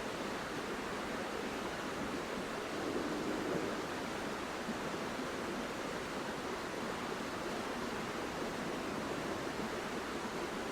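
Steady rushing of a flowing river, an even wash of running water.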